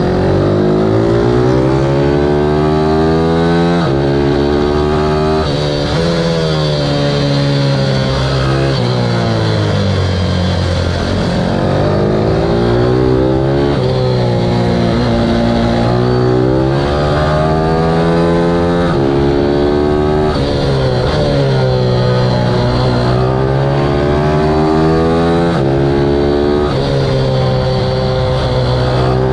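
Onboard sound of an Ohvale 160 supermini race bike's single-cylinder four-stroke engine at racing speed, revving up with pitch rising and dropping sharply at each upshift, then falling away as it slows for corners, several times over.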